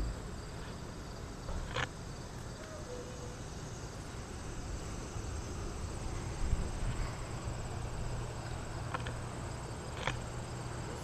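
Insects trilling steadily at a high pitch over a low steady rumble, with a few brief clicks.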